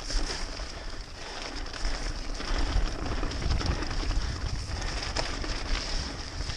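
2006 Specialized Stumpjumper FSR mountain bike rolling over a wet, muddy trail: steady tyre and drivetrain noise with low wind rumble on the camera microphone and a few light knocks from the bumps.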